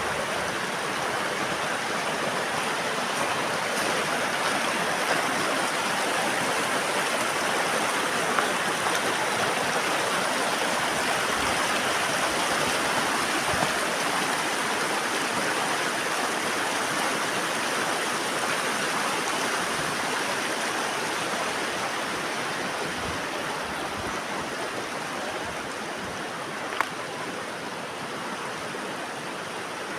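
Fast mountain river rushing in winter: a steady, dense rush of turbulent water.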